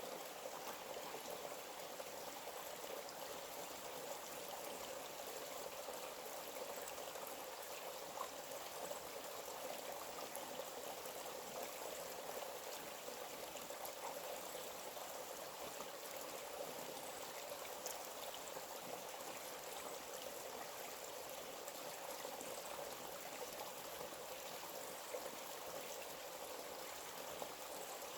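Small forest stream flowing and trickling steadily, an even rushing of water without pause.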